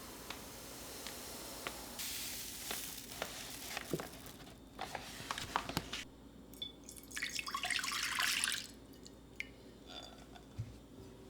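Water at a kitchen sink, splashing and dripping, with scattered light clicks and knocks; a louder rush of water about seven seconds in lasts over a second.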